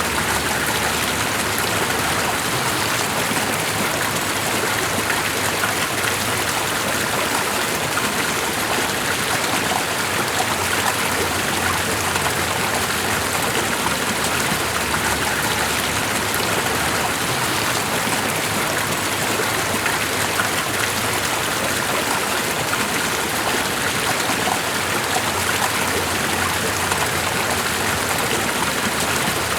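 Steady, even rush of flowing water, unbroken and unchanging throughout.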